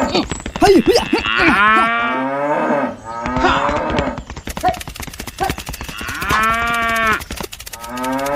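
Cow mooing twice, each a long call that rises and falls in pitch, with a busy clatter of clicks underneath.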